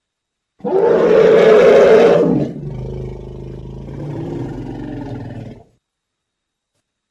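Elephant call: a loud, harsh roar starting about half a second in and lasting nearly two seconds, followed by a quieter, lower rumble for about three seconds that cuts off suddenly.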